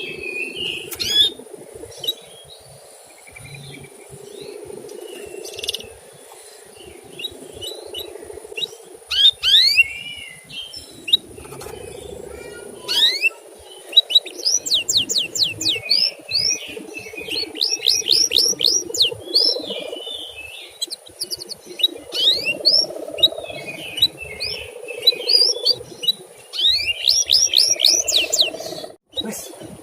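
Male canary chirping: repeated quick rising 'cuit' notes, scattered at first, then in fast runs through the second half, over a low steady hum.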